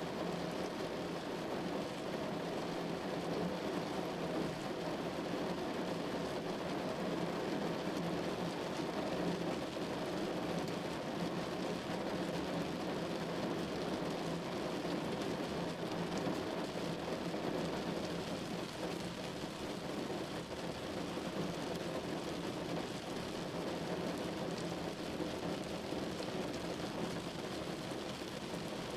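Steady rain falling on a window pane: a constant, even patter of drops with no break or change.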